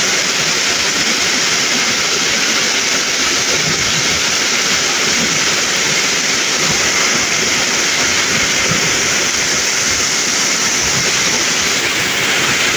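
Very heavy rain: a steady hiss of rain falling onto standing floodwater, with runoff streaming off a roof edge and splashing into the flood.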